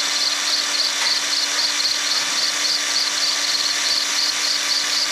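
Electric sander running steadily: an even whir with a constant low hum and a faint high pulsing about three times a second.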